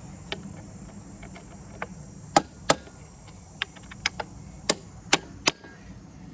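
Irregular sharp knocks, about ten, like hammer blows while prying parts loose from an old sawmill frame. The hardest strikes come in two clusters, one about two and a half seconds in and one about five seconds in.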